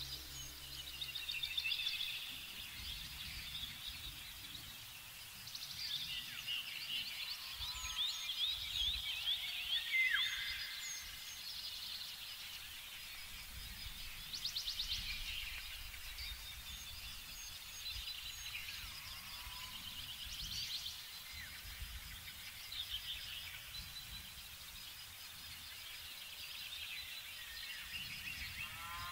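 Several songbirds singing at once, with overlapping chirps, rapid trills and short whistles, including a falling whistle about a third of the way in. Under them runs a faint, uneven low rumble.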